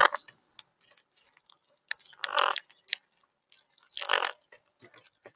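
Wild monk parakeets (Quaker parrots) cracking sunflower seeds with their beaks: a scatter of sharp little clicks, with two short harsh calls, one about two seconds in and another about four seconds in.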